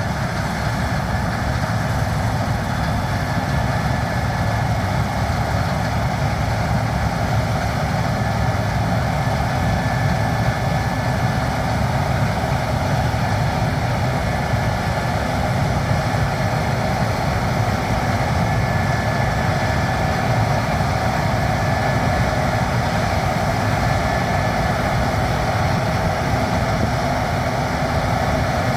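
Heavy farm machinery engine running steadily, an even low hum with a few faint steady tones above it.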